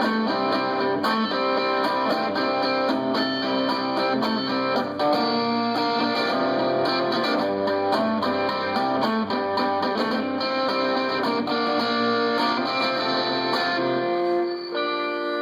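Guitar playing a busy run of plucked notes and chords, then settling on one chord left ringing near the end.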